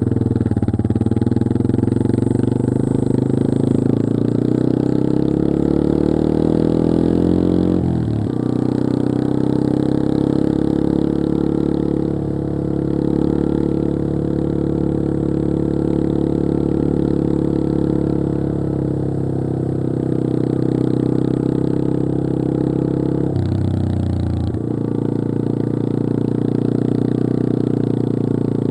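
Yamaha XT225 Serow's single-cylinder four-stroke engine pulling under way. Its revs climb steadily, then drop sharply with a gear change about eight seconds in. It then runs at a steady cruise, with a brief dip in revs and recovery a few seconds before the end.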